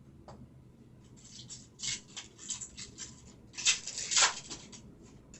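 Trading cards and their foil pack wrapper being handled: a run of crinkling, rubbing noises, loudest about three and a half to four and a half seconds in.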